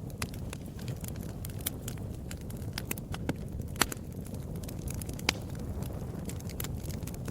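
Wood fire in a fireplace crackling over a steady low rumble of flames, with scattered sharp pops, two of them louder about four and five seconds in.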